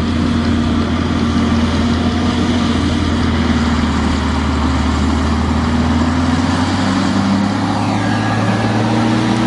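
Tractor diesel engine running steadily under load, its note rising slightly about two thirds of the way in.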